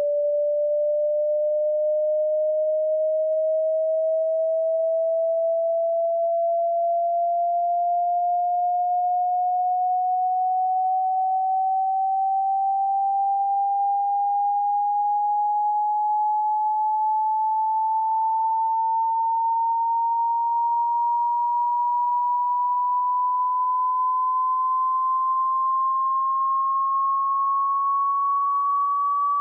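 A pure electronic sine-wave tone gliding slowly and evenly upward in pitch, rising about an octave over half a minute at a steady loudness.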